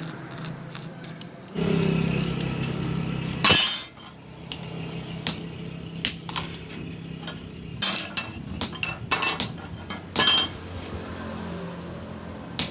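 Steel bars and tools clinking and clanking, a run of sharp metal strikes and taps with a steady low hum underneath. A louder noisy stretch about two seconds in ends in one hard strike.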